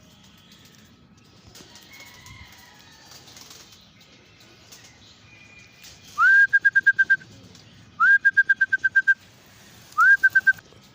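Three loud trilling whistle blasts used to call racing pigeons back into the loft. Each starts with a quick upward swoop and then warbles in fast even pulses on one high pitch; the third is shorter.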